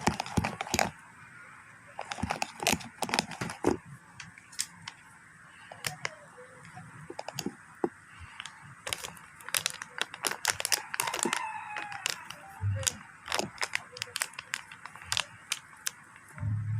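Glue-and-soapy-water slime mixture being stirred and worked in a bowl: irregular sticky clicks and crackles as it fails to come together. A faint drawn-out call sounds about eleven seconds in.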